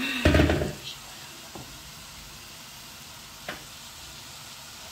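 Grated cabbage sizzling steadily in hot oil in a pot. Near the start comes a short loud clatter with a dull thud as the cabbage and utensil are handled, and later two light clicks.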